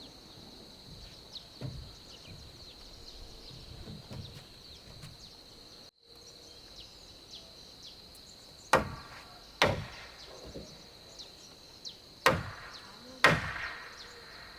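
Four sharp knocks of timber being struck, in two pairs in the second half, each with a brief ringing tail. Under them runs a steady high drone of insects.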